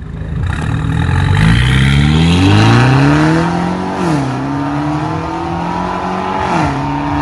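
Mercedes-Benz E250's turbocharged four-cylinder engine revving through an aftermarket valved exhaust system. The pitch climbs for a couple of seconds, drops sharply about four seconds in and holds steady, then drops again near the end.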